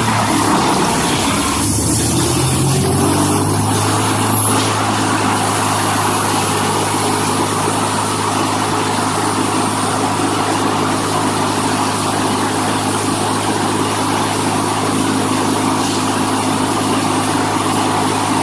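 A heavy machine's engine running steadily, a continuous low drone whose pitch shifts a little in the first few seconds before settling.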